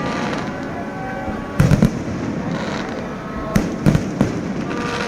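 Fireworks going off in a display: a quick cluster of bangs about one and a half seconds in, then three more spaced bangs about two seconds later, over a continuous crackle and hiss.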